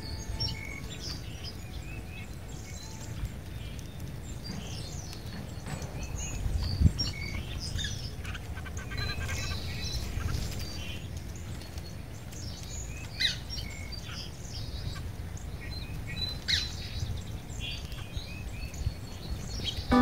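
Several small birds chirping and calling on and off, over a steady low background rumble, with one low thump about seven seconds in.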